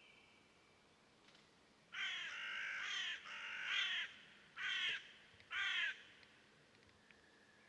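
A bird calling loudly four times: two long calls of about a second each, then two short ones.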